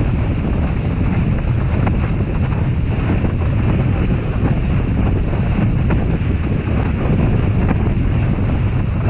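Strong wind buffeting the microphone on a sailing boat: a loud, steady, low rumble that does not let up.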